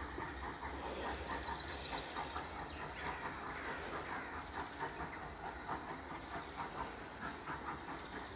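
Steam-hauled train running past, its wheels clicking lightly over the rail joints; a low rumble fades out about two seconds in.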